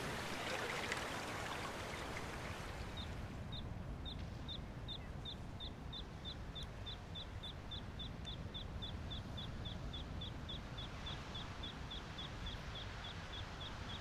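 Running water with a low wash of surf underneath. About three seconds in the water noise gives way to a quieter wash, and a small bird starts repeating one short high chirp about three times a second, gradually quickening.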